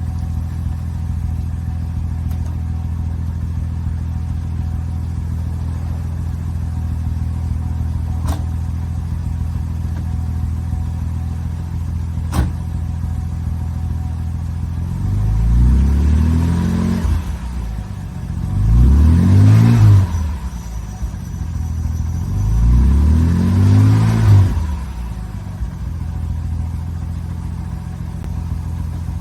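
1971 Jaguar E-Type's straight-six with triple SU carburettors idling smoothly through a Borla Corsa SS exhaust. It is blipped three times from about halfway through, each rev rising quickly and dropping back to idle.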